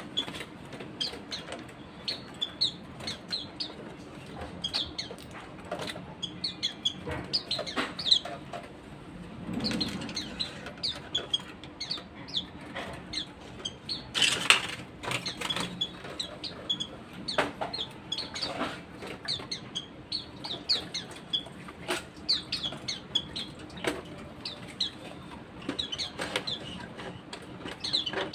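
Caged white-eyes (pleci) giving many short, high chirps, with bouts of wing flapping and small knocks; a louder flurry of flapping comes about halfway through.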